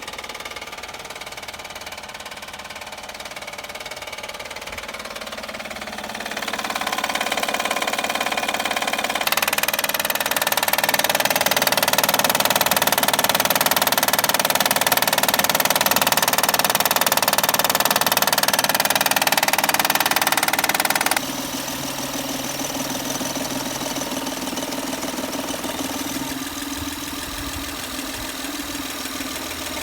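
2011 Honda Accord's 3.5-litre V6 running with a knocking noise, which the owner traces to a failing timing belt tensioner. The sound steps louder about a fifth of the way in, is loudest through the middle, and drops abruptly about two-thirds of the way through.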